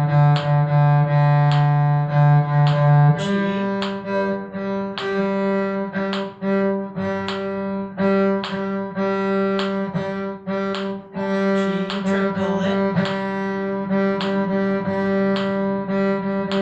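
A bowed string instrument playing a bowing study on the G minor arpeggio: the same note repeated in a steady rhythm of quarter-note and triplet strokes, stepping up from D to the next arpeggio note about three seconds in and staying on it with repeated strokes.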